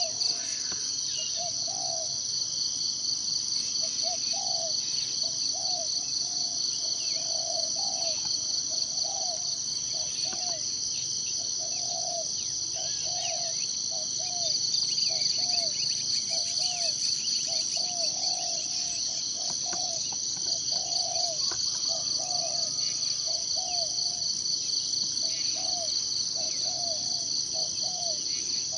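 Steady, high-pitched chorus of insects trilling, with short low calls repeating about once or twice a second and a few faint bird chirps over it.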